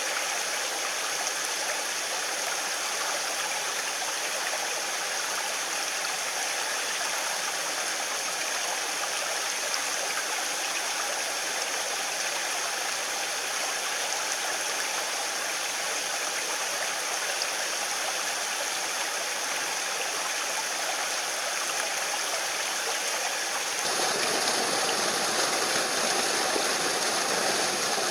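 Mountain stream rushing steadily over rocks. About 24 seconds in it suddenly becomes louder and fuller.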